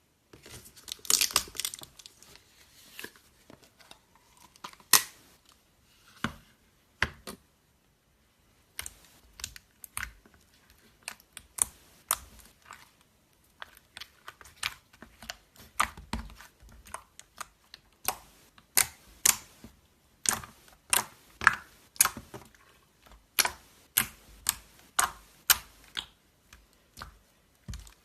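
Slime being squeezed, pressed and stretched by hand, giving sharp sticky pops and clicks. It starts with a dense crackle, goes sparse with a short pause, then settles into a quicker run of about two pops a second.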